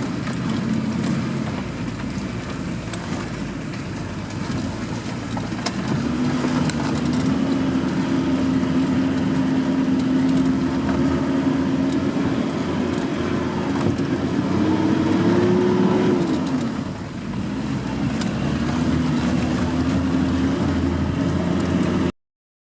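Off-road vehicle engine running under load. It revs up about six seconds in and holds a steady note, climbs higher around fifteen seconds, drops off briefly, then picks up again. The sound cuts off abruptly near the end.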